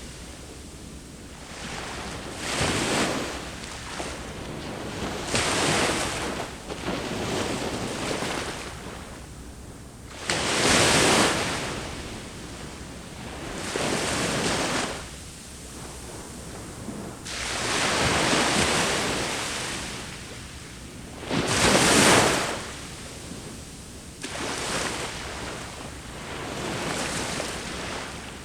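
Sea waves breaking and washing onto the shore, each wave swelling and fading every few seconds. The two largest breakers come about a third of the way in and again near three quarters of the way through.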